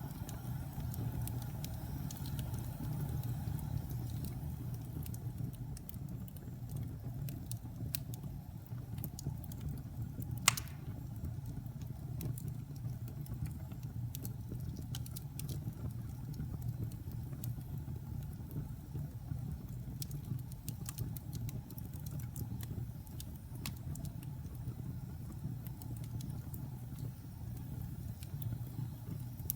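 Wood fire burning in a fireplace: a steady low rumble of flames with scattered crackles and one loud pop about ten seconds in.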